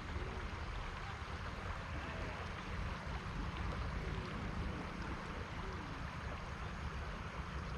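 Steady wind rumbling on the microphone over the even rush of flowing river water.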